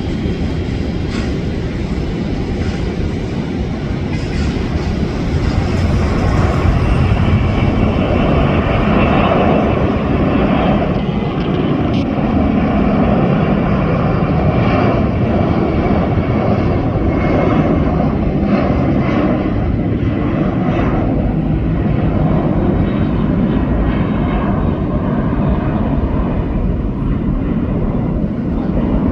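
Boeing 747-400's four jet engines running at takeoff power, a loud, steady roar that builds a few seconds in and holds.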